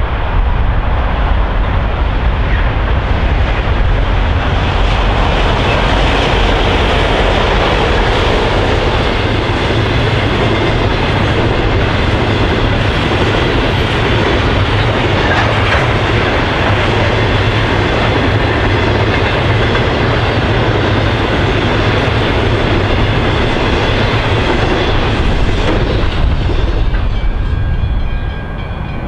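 A train passing, with a steady, loud noise of wheels running on the track. The noise drops away near the end as the train clears.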